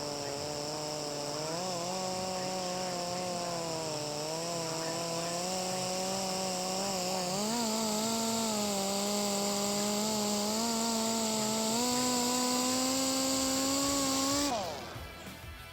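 Electric polisher buffing out freshly sanded gelcoat: a motor whine whose pitch wanders and steps up a little as the speed and pressure change, over a steady hiss from the pad on the surface. About fourteen and a half seconds in it is switched off and the pitch slides down as it spins down.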